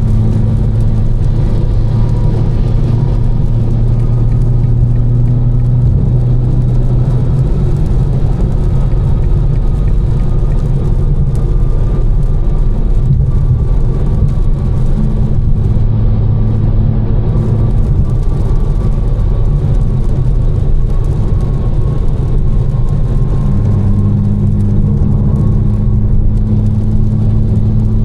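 Tuned BMW M4 with catless downpipes and an aftermarket exhaust cruising steadily, a low engine drone under a constant hiss of tyres on a wet road. The drone eases off in the middle and swells again near the end.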